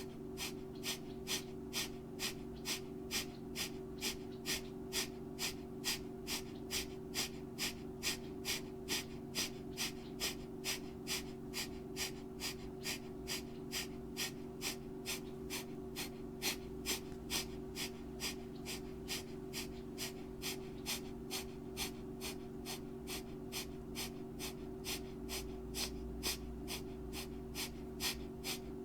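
Breath of fire: rapid, forceful rhythmic exhalations through the nose, about two to three a second, kept up evenly. A steady low humming drone sits underneath.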